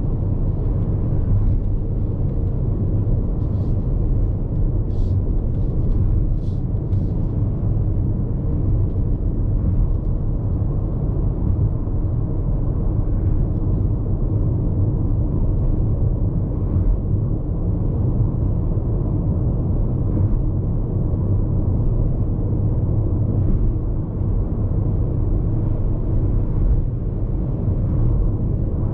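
Road noise inside the cabin of a Hyundai IONIQ 5 AWD electric car cruising on the highway: a steady low tyre rumble with wind noise and no engine sound, and a few faint ticks in the first several seconds.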